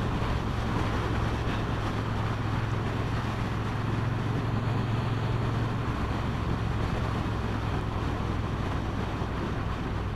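Motorcycle engine running steadily as the bike is ridden, under a constant rush of wind noise on the microphone.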